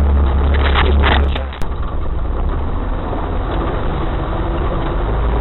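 Off-road vehicle's engine running with a heavy, steady low rumble, heard from on board. About a second and a half in the sound breaks off suddenly with a click, then a rougher, noisier vehicle rumble carries on.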